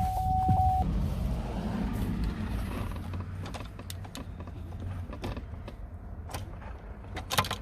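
A 2005 Chevy Trailblazer with the key turned to start and the engine not cranking: a warning chime holds one steady tone for the first second, then a low hum fades over a few seconds under scattered light clicks. The engine does nothing, which is the no-start fault being diagnosed.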